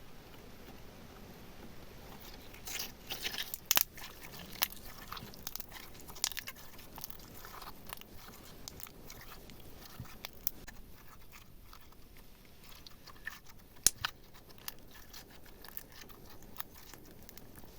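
Slime being squeezed and mixed by hand with small solid bits worked into it, giving irregular crunchy crackles and clicks. A dense cluster of sharper clicks comes about three to four seconds in, and a single loud click comes about fourteen seconds in.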